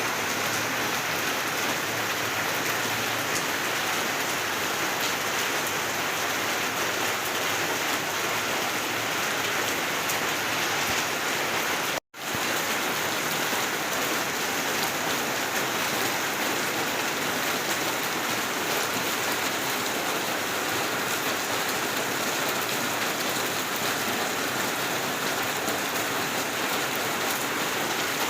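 Steady rain falling, an even dense hiss, which cuts out for an instant about twelve seconds in.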